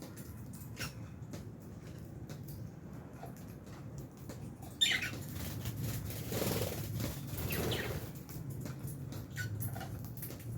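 Lovebirds in an aviary: scattered small clicks, a short high chirp about five seconds in, then a couple of seconds of wing flapping.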